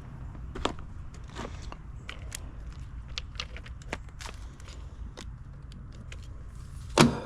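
Handling noises: irregular small clicks and taps, with one loud knock near the end, over a low steady hum.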